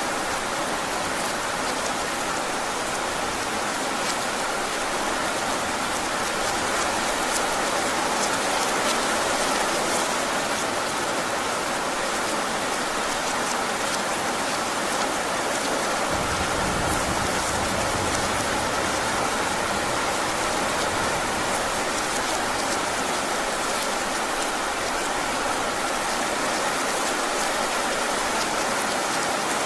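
Heavy rain falling steadily, a dense even patter, with a brief low rumble about halfway through.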